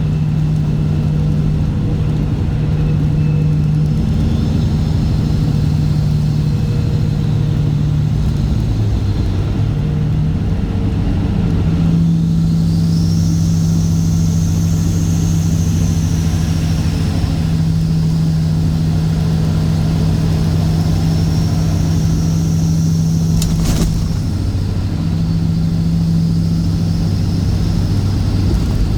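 Straight-piped Cat C15 Acert inline-six diesel in a Kenworth W900 running under way with a steady, deep drone; its pitch steps a little about ten seconds in. A faint high whistle rises and falls in the middle, and there is a single sharp click near the end.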